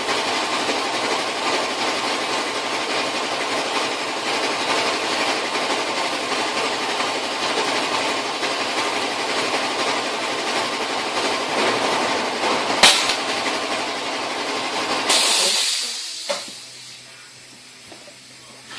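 Torch flame hissing steadily as it heats a seized nut to free its threads. Near the end comes a sharp click, then a brief louder burst, and the flame cuts off.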